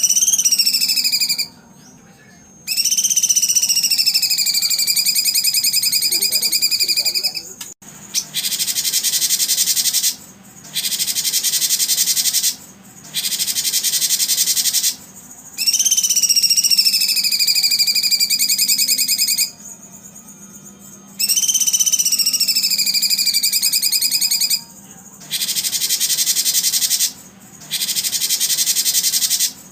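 A looped recording of birdsong for training songbirds: long whistled calls that dip and then level off, taking turns with dense, high buzzing trills about two seconds each, every call starting and stopping abruptly.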